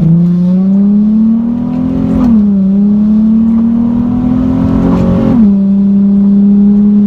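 Nissan 370Z's 3.7-litre V6 with a muffler delete accelerating hard, heard from inside the cabin. The engine note climbs, drops at an upshift about two seconds in, climbs again, drops at a second upshift about five seconds in, then holds steady.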